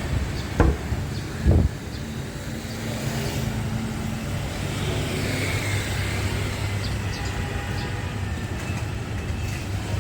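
Busy street traffic, engines running steadily as vehicles pass, with two short thumps in the first two seconds.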